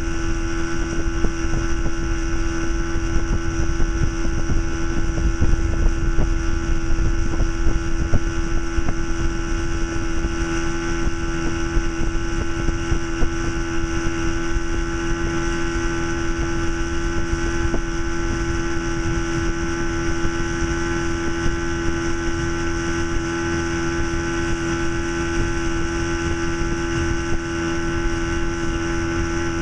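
Force 40 hp two-stroke outboard motor running at a steady throttle, its pitch holding even, with wind buffeting the microphone.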